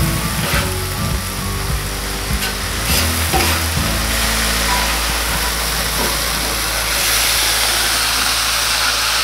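Strips of meat and vegetables sizzling on a very hot flat-top griddle plate. A metal spatula scrapes and turns them across the plate several times.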